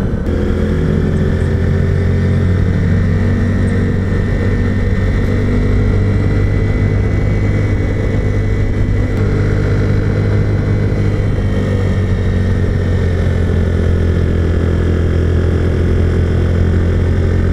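Honda CG125's single-cylinder four-stroke engine running at a steady cruise, heard from the bike while riding, its low drone holding a fairly even pitch.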